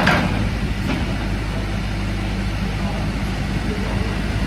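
Case 580N backhoe loader's diesel engine running steadily, with a short burst of noise right at the start and a fainter one about a second in.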